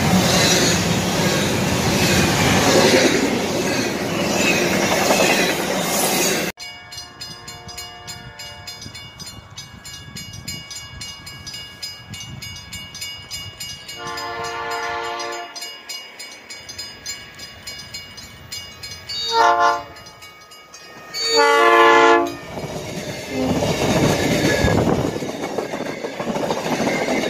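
A double-stack intermodal freight train rolling past close by with the steady rumble and clatter of its cars. It cuts off abruptly a few seconds in. An electric commuter train then sounds its horn three times, a long blast, a short one and another long one, and its passing rumble swells near the end.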